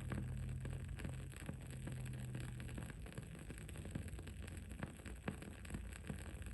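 Wood-wick candle burning, its wick crackling with irregular small pops and ticks over a faint steady background hiss. A low hum under it stops about halfway through.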